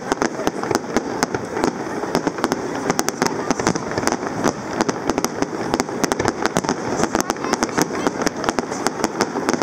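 Aerial fireworks display: a dense, irregular run of sharp bangs and crackles from bursting shells, several each second.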